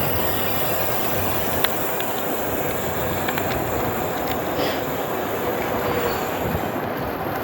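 Steady wind and rolling noise from riding an e-bike, picked up by a phone microphone in a furry windscreen, with a few light clicks.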